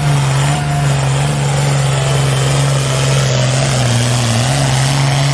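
Diesel pulling tractor's engine running loud and steady at high revs, holding an even pitch with only slight dips.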